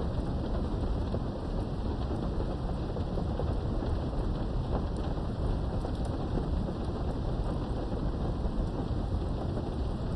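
Steady rain with a continuous low thunder rumble underneath, heard from indoors behind a window; faint raindrop ticks are scattered through it, with no single sharp thunderclap.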